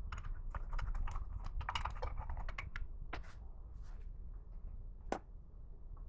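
A run of quick, irregular clicks and light taps, like small metal parts and tools being handled on a bench, followed by a few scattered clicks and one sharper click about five seconds in.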